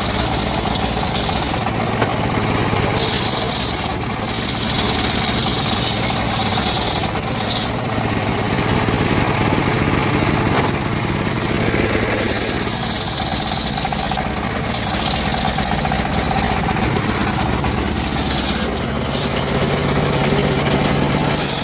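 Engine-driven saw running and cutting timber: a steady engine hum under a high cutting hiss that swells and drops away every few seconds.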